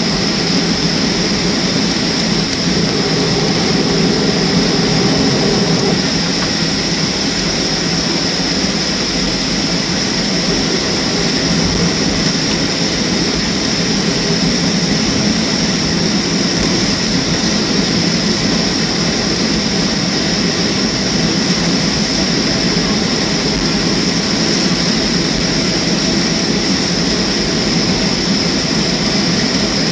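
Steady cabin noise inside a Boeing 737-300 after landing: its CFM56 jet engines at idle and the air-conditioning flow, with a steady high whine over an even rumble.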